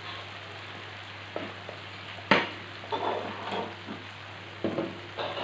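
Chilli spice paste frying in oil in a wok, a steady sizzle at the stage where the oil has split from the paste. Several knocks and clatters of utensils over it, the loudest a sharp knock about two seconds in.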